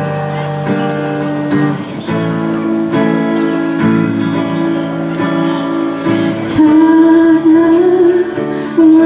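Guitar strumming chords, about one a second, in an instrumental passage of a live pop ballad. About two-thirds of the way through, a long wavering sung note comes in over it.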